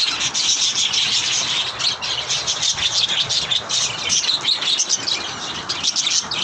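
A flock of small pet birds chirping busily, many rapid overlapping chirps with no pause.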